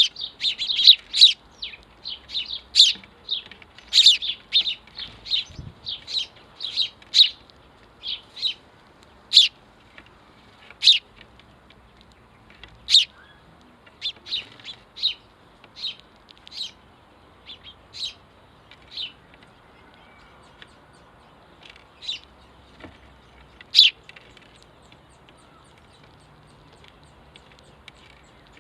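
House sparrows chirping: many short, sharp chirps, coming thick and fast at first and thinning out to scattered single calls.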